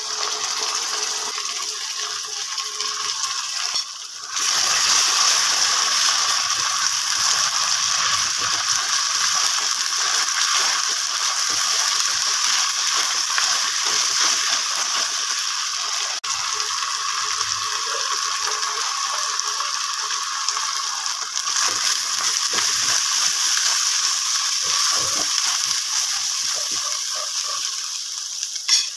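Shallots, curry leaves and ginger-garlic paste sizzling in hot oil in a stainless steel pan, with a spoon clinking and scraping against the pan as it stirs. The sizzle gets louder about four seconds in.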